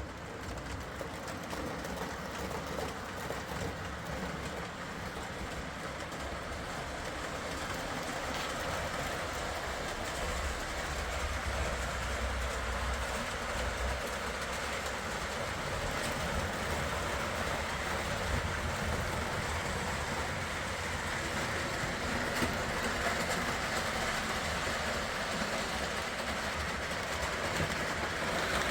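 O gauge model trains running around three-rail track: the steady running noise of their electric motors and wheels on the rails, slowly growing louder.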